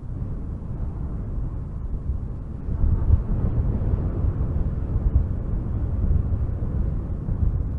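Strong wind gusting through spruce trees, a low, deep rush that swells about three seconds in and stays up.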